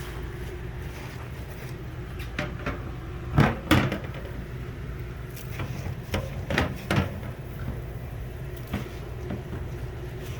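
Scattered knocks and clunks of parts being handled in an RV refrigerator during cleaning, the loudest two in quick succession about three and a half seconds in, over a steady low hum.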